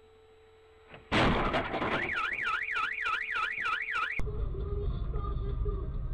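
A sudden loud noisy burst about a second in, then a car alarm wailing up and down, about three to four sweeps a second, which cuts off abruptly. It is followed by steady low engine and road noise.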